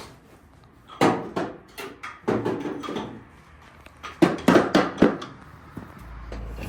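Irregular sharp knocks and clunks in short groups, with a fast run of four or five near the end, from work on an engine being pulled out of a truck. A low steady hum starts near the end.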